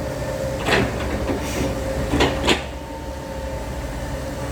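Dump truck engine running steadily under load with a steady whine, and three sharp knocks from the truck about a second in and twice near the middle.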